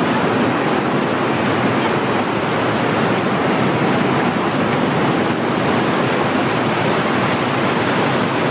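Loud, steady rushing noise with no distinct events, of the kind made by strong wind or heavy surf.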